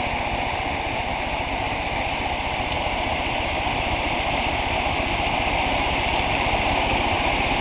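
Rushing water of a stream: a steady, unbroken rush.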